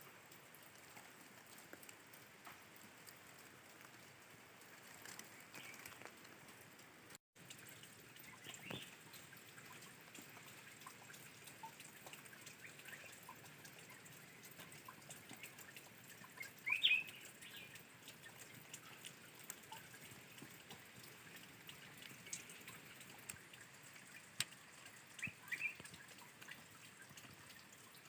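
Spring water trickling and dripping steadily and faintly, with a few short bird chirps: one about a third of the way in, a louder one near the middle, and a quick pair near the end.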